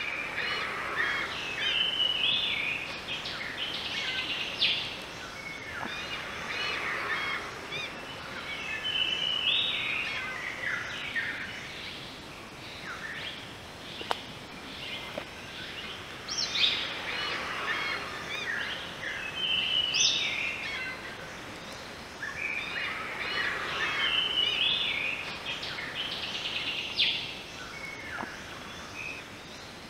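Wild birds chirping and calling in repeated bouts every few seconds, over a steady background hiss of forest ambience.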